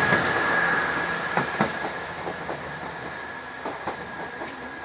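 Great Western Railway diesel multiple-unit train passing and pulling away, its rumble fading as the wheels clack over the rail joints in three pairs. A level crossing's steady high warning tone sounds throughout.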